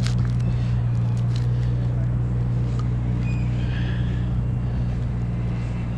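An engine running at a steady, unchanging speed, with a few light clicks and scrapes over it.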